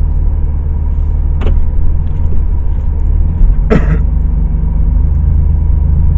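Steady low rumble of engine and road noise inside a moving car's cabin. A faint click comes about a second and a half in, and a short, sharp sound falling in pitch a little past halfway.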